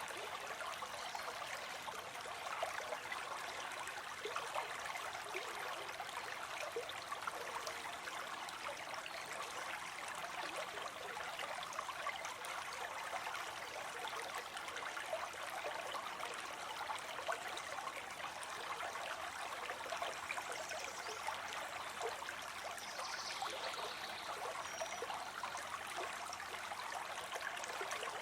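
Stream water flowing and trickling in a steady, even rush.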